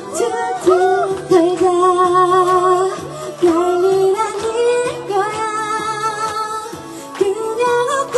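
Live pop song: a female singer holds long, wavering notes over a light acoustic accompaniment.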